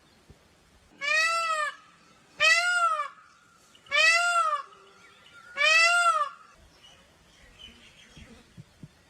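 Indian peafowl giving four loud, wailing calls in a row, each under a second long and arching up and down in pitch, about a second and a half apart.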